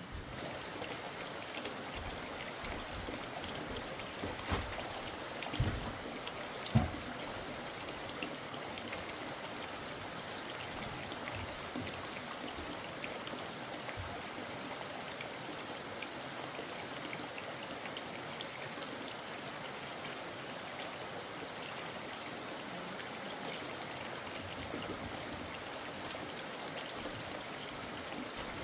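Steady hiss of water, like rain falling or a stream running, with three short knocks between about four and seven seconds in, the last the loudest.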